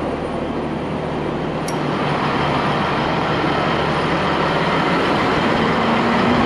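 Heavy diesel engine running steadily, slowly growing louder, with a rising pitch near the end as it revs up.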